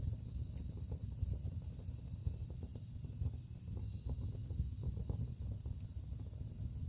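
Wood fire burning in a fireplace: a steady low rumble of flames with frequent small crackles and an occasional sharper pop from the burning logs.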